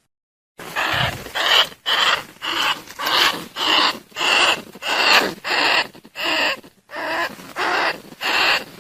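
Bandicoot rat calls, a lure call for drawing rats in: short, harsh squealing calls repeated steadily about every 0.7 seconds, starting about half a second in.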